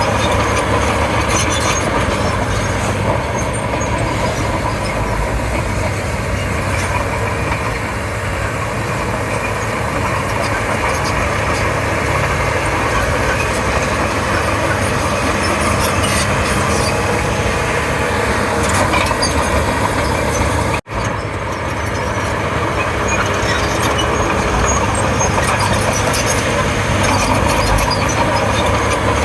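Komatsu D31P crawler bulldozer's diesel engine running steadily under load, with scattered metallic clicks and clanks over it. The sound drops out for an instant about two-thirds of the way through.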